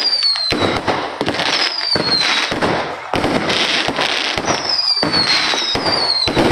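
Fireworks going off without pause: dense crackling and sharp bangs, with about four high whistles that fall in pitch.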